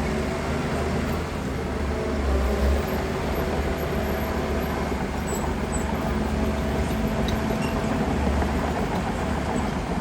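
Heavy diesel engine of earthmoving machinery running steadily under load, a low rumble that swells briefly a couple of times.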